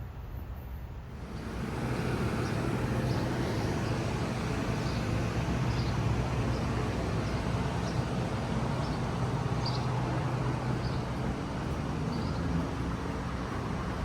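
A train running by, its steady rumble coming up about a second in and holding, with a low hum underneath and light ticks.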